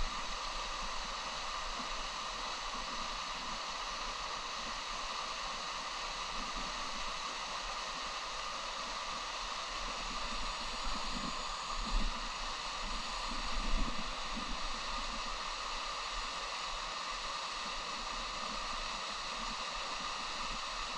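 Steady rushing of a mountain stream's water by a waterfall, an even hiss, with a couple of dull low bumps a little past halfway through.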